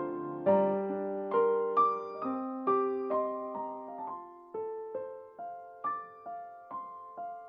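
Solo piano music: slow single notes and chords, each struck and left to ring, gradually getting quieter.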